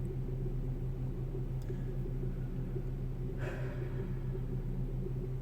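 Steady low drone of a car heard from inside the cabin, with one short noise about three and a half seconds in.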